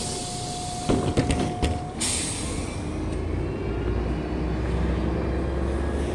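MAZ-105 city bus's pneumatic doors closing: a steady warning tone and a hiss of air, with the door leaves knocking shut about a second in. About two seconds in the tone stops with a burst of air. The engine then pulls the bus away with a low rumble, its pitch slowly rising.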